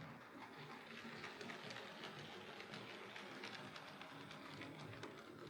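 Hornby OO gauge Rebuilt Merchant Navy model steam locomotive running on track: a faint steady whirr with many irregular small clicks.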